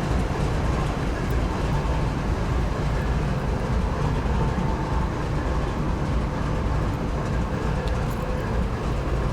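Canadian Pacific freight train rolling past at just over walking pace, a steady low rumble.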